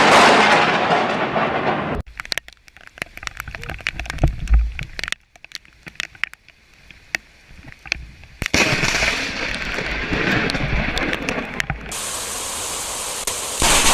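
Thunderstorm sounds across several cut-together clips: a loud crash of thunder fading away, then sharp cracks and a low boom of a nearby lightning strike, then a steady hiss.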